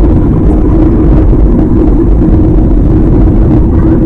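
Loud, steady rumble of an Airbus A320's engines and airflow heard inside the cabin, with a steady low hum running through it.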